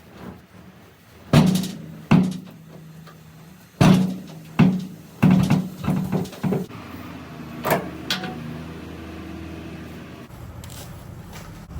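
A series of sharp knocks and bangs, about seven of them over several seconds, over a low steady hum.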